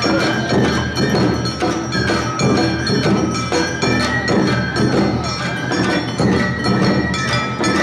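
Awa-odori festival music: a small hand gong (kane) ringing on a steady two-beat rhythm with drums, under a bamboo flute melody.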